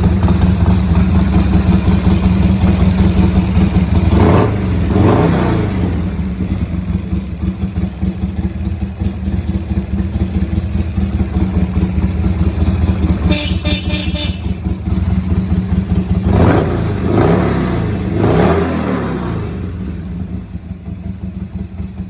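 2003 Harley-Davidson XL 883 Sportster's air-cooled 883 cc V-twin idling, with a quick throttle blip about four seconds in and a few more blips in a row near the end.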